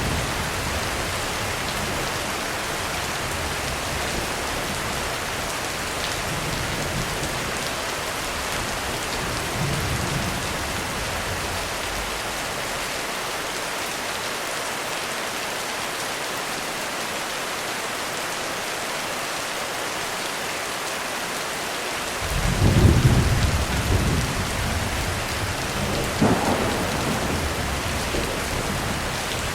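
Heavy rain falling steadily, with thunder rumbling. Soft low rolls come in the first third, then a louder roll of thunder about three-quarters of the way through, rumbling on with further peaks near the end.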